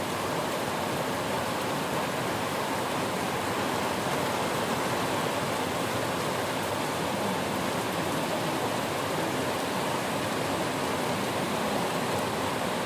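Heavy monsoon rain falling: a steady, dense hiss that does not change.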